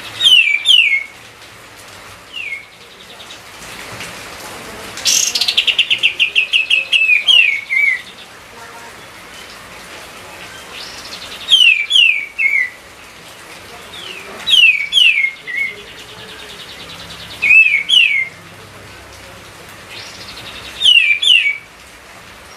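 Songbird that Indonesian bird keepers call 'kapas tembak', singing. It gives repeated short phrases of two or three quick descending notes every few seconds, and one longer rapid trill about five seconds in.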